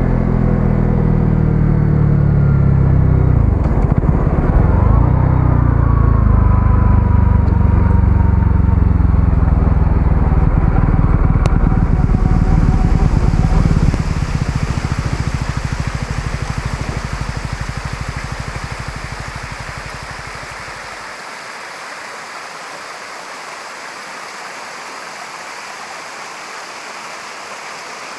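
A 125cc single-cylinder motorcycle engine running under way, its pitch dipping and rising with throttle and gear changes, then dying away over several seconds about halfway through. A steady rushing hiss remains afterwards.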